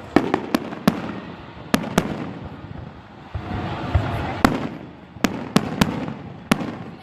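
Fireworks display: about ten sharp bangs of bursting shells at irregular intervals, several in quick clusters, with crackling and echo between them.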